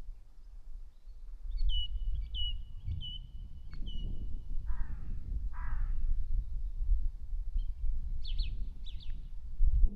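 Birdsong. A small bird gives a run of short, high chirps, and a crow caws twice, harshly, in the middle. A steady low rumble underlies it all.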